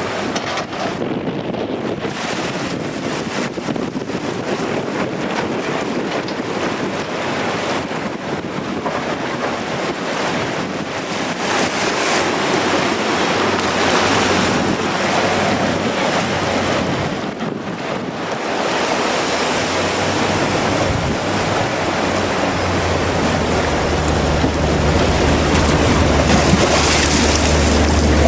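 Strong gusting wind buffeting the microphone over the rush of sea surf. A low wind rumble on the microphone grows stronger over the last several seconds.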